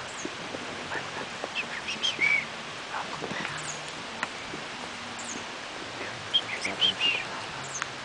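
Small birds chirping in two quick bursts of varied, high, sliding notes, about two seconds in and again near seven seconds, over a steady rushing hiss of an open mountain forest.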